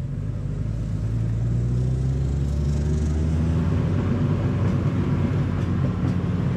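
Car engine running under way with road rumble, its note rising a little over the first few seconds and then holding steady.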